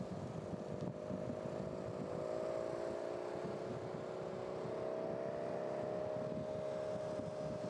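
Motorbike engine running steadily, its pitch creeping slightly upward over the first few seconds and then holding, over a rough low rumble.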